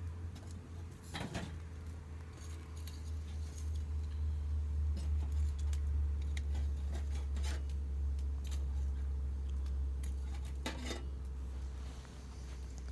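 Wood campfire crackling, with irregular sharp pops and snaps, a couple of louder ones about a second in and near the end. A steady low rumble underneath swells through the middle.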